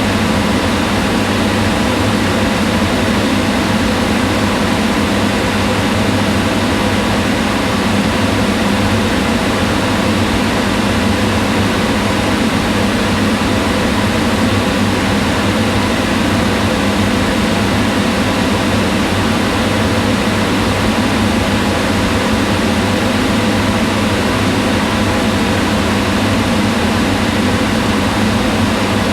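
Kitchen range hood fan running steadily: an even whooshing of air over a low motor hum, unchanging throughout.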